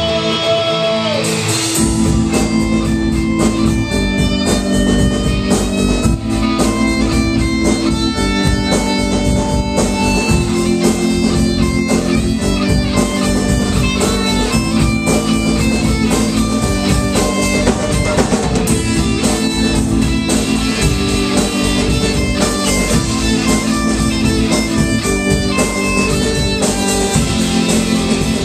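A live rock band plays an instrumental passage: electric guitar and bass hold chords that change about every second or two, over a drum kit, with lead guitar notes on top.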